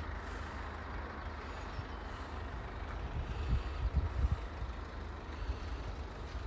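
Scania hook-lift truck's diesel engine running steadily, with a few low thuds about halfway through.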